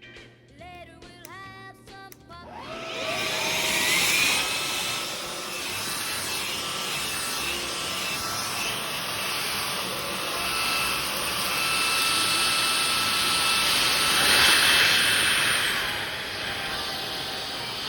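Cordless vacuum cleaner switched on about two and a half seconds in, its motor spinning up with a rising whine and then running steadily. The noise swells louder around fourteen to fifteen seconds in, then settles back down.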